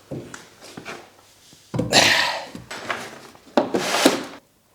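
Metal parts of a Ural motorcycle engine being handled during teardown: small clicks, then two longer bouts of scraping and clunking, about two seconds in and again near the end.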